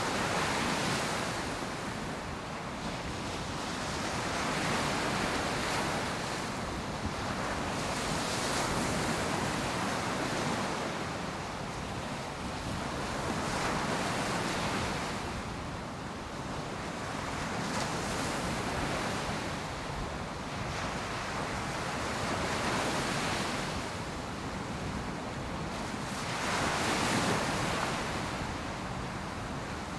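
Ocean surf breaking on a sandy beach, the wash swelling and fading every few seconds, with some wind on the microphone.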